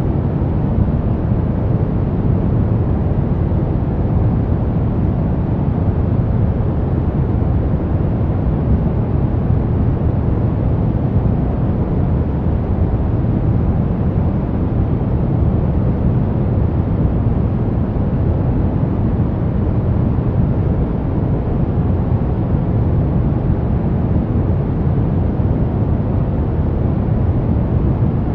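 Brown noise: a steady, unchanging rumble of random noise, loudest in the bass and fading toward the treble.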